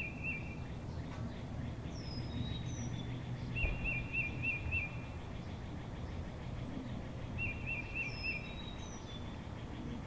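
Faint outdoor ambience: a songbird sings twice, each time a few short high notes and a quick wavering trill, over a low steady background hum.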